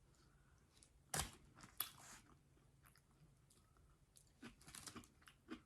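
Faint eating sounds close to the microphone: chewing and crunching, with a sharp click about a second in and a run of small crunches near the end.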